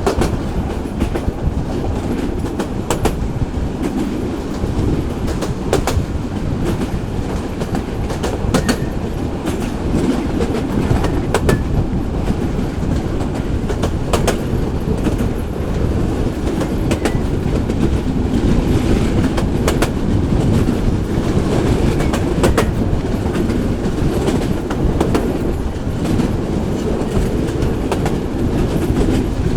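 A local passenger train running on its track: a steady low rumble of wheels on rail, with a sharp clack from the rail joints every few seconds.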